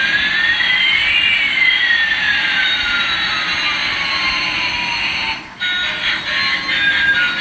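Electronic jet-engine sound effect from a toy airliner's speaker: a hissing roar with a whistle that rises in pitch while another falls, the two crossing. About five and a half seconds in it cuts out briefly and changes to a choppy run of electronic beeping tones.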